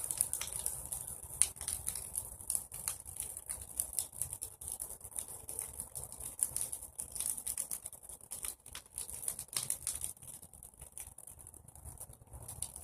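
Bonfire of freshly pruned tree branches burning, with dense, irregular crackling and popping over a steady high hiss.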